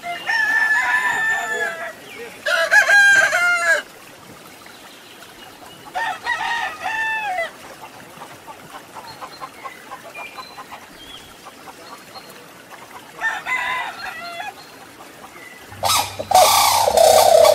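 A rooster crowing four times, each crow a second or two long, with long quiet gaps between. Near the end a louder, different call with sharp clicks starts up, from a grey crowned crane.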